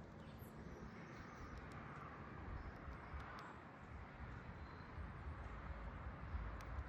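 Faint outdoor backyard ambience: a low rumble that grows toward the end, with a few faint, brief high chirps or clicks.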